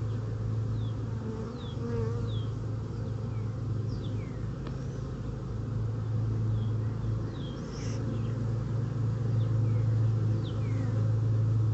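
A honeybee colony from a freshly caught swarm buzzing steadily as its hive is opened and the frames are worked through: a continuous low hum that grows somewhat louder in the second half. Short, high, falling chirps sound over it now and then.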